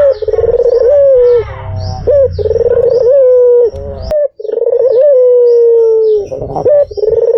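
White Barbary dove (puter) cooing loudly: about three long drawn-out coos, each opening with a short rising note and then falling slowly. Faint high chirps run above the coos.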